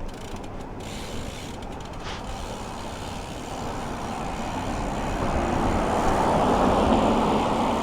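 Road and tyre noise of an electric car coming up from behind, growing steadily louder and loudest about seven seconds in.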